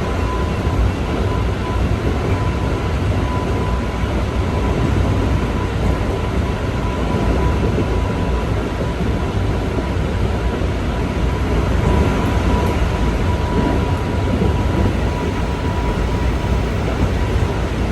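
A Keikyu 1500 series (1700 subseries) electric train heard from inside the car while running at speed: a steady rumble of wheels on rail with a thin, steady high tone from the running gear.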